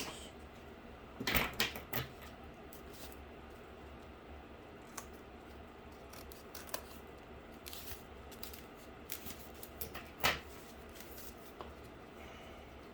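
Scissors snipping and clicking, with scattered sharp clicks and knocks of handling; the loudest come about a second in and again near ten seconds in.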